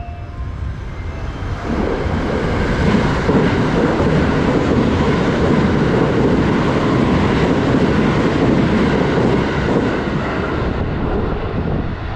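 A train running through on the rails: a loud, steady rumble that comes up abruptly about two seconds in and eases off near the end.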